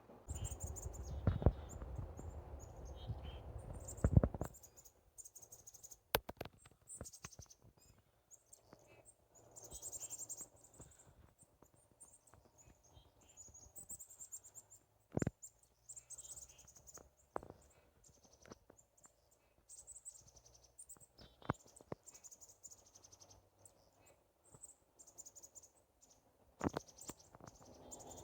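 Evening chorus of high-pitched chirps and trills from songbirds and insects, repeating throughout. A low rumble covers the first few seconds, and sharp clicks come here and there.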